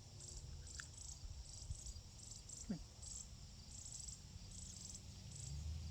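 Insects chirping in a steady background chorus of short high-pitched pulses, about two a second.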